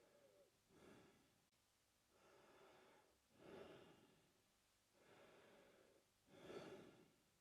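A man breathing slowly and quietly through his open mouth. There are about three breath cycles, each a short, louder breath followed by a longer, softer one.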